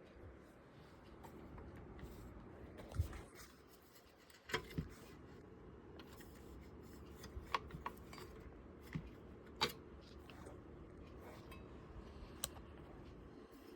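Scattered light clicks and taps of small hard parts being handled and fitted, a dozen or so at uneven intervals over a faint low hum.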